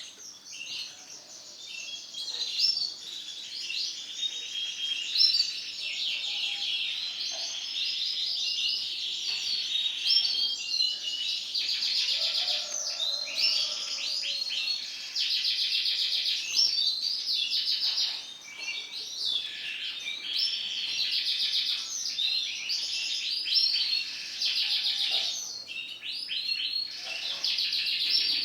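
Canary singing continuously: rapid high trills and chirping phrases with only brief pauses.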